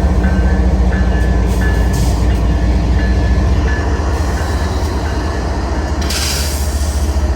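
A train running past with a heavy, steady low rumble and short high tones repeating in the first few seconds. A brief hiss comes near the end.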